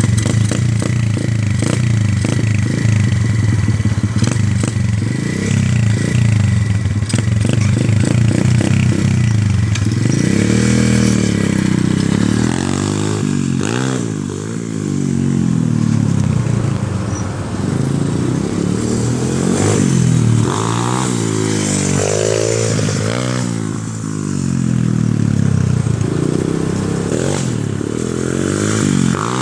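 125cc pit bike's single-cylinder four-stroke engine running. For about the first ten seconds it holds a fairly even pitch, then it revs up and down again and again as the bike is ridden.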